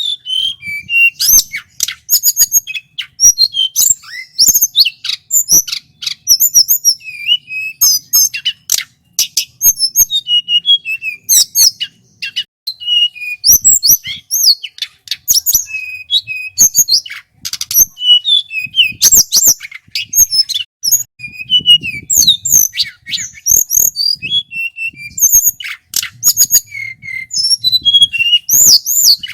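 Male tledekan gunung singing loudly and without pause: a rapid, varied run of high chirps, sliding whistles and quick trills.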